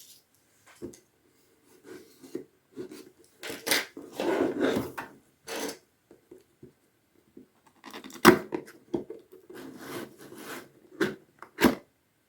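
Cardboard headphone box being opened by hand: irregular scraping and rubbing of cardboard with sharp taps and clicks. The longest, loudest scraping comes about four seconds in, with sharp knocks around eight seconds and again near the end.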